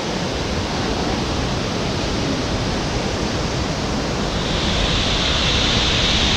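A large waterfall plunging onto rocks close by: a loud, steady rush of falling water. A brighter hiss builds in the second half.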